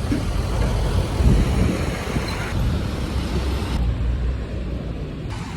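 Road traffic noise: a steady low rumble of vehicles, changing abruptly about two and a half and four seconds in.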